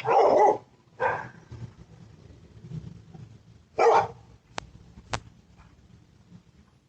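Dogs barking, three barks spread over the first four seconds, followed by two sharp clicks.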